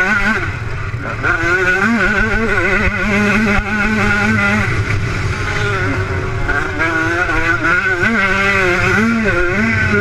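Motocross motorcycle engines running hard, the pitch rising and falling quickly with the throttle.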